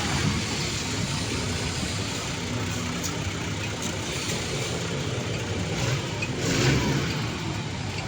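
Diesel truck engine running, with a brief rise in loudness about two-thirds of the way through.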